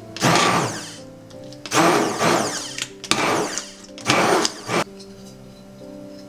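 Blender puréeing vegetable soup in four short pulses, each a burst of motor whir that speeds up and winds down, with the second pulse the longest.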